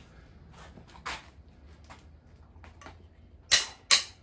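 Metal hand tools clinking while a socket and breaker bar work on engine cylinder head bolts, with light clicks and then two sharp, loud metallic clacks near the end.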